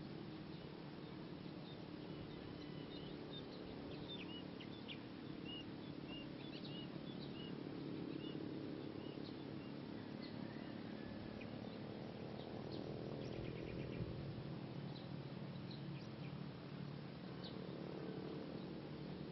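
Outdoor ambience of small birds chirping in short high calls, mostly in the first half, over a steady low hum.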